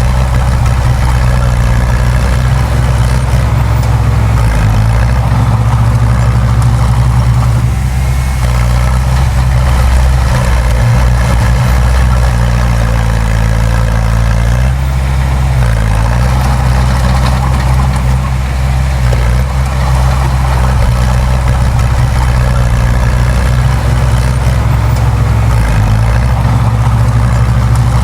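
Heavy earthmoving machinery's diesel engine running loudly and steadily, its deep drone shifting only slightly around the middle.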